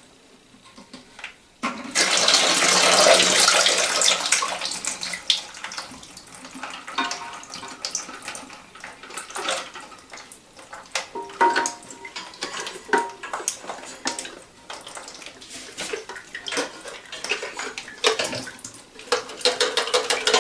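Water gushing out of a toilet tank's disconnected fill valve, starting suddenly about two seconds in and tapering off after a few seconds. Scattered clicks and knocks follow.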